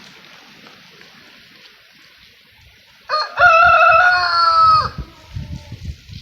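A rooster crows once: a single call of nearly two seconds, starting about three seconds in and dropping in pitch at the end. Wind rumbles on the microphone in gusts.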